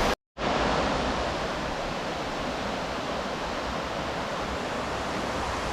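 River Greta rushing past: a steady noise of flowing water, broken by a momentary dropout just after the start.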